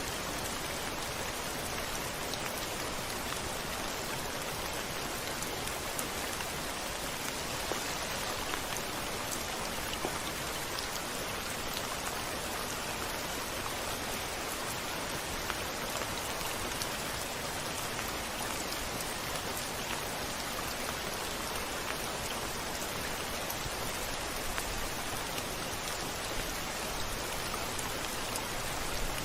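Steady rain, with scattered drops pattering on a hard surface, and no thunder.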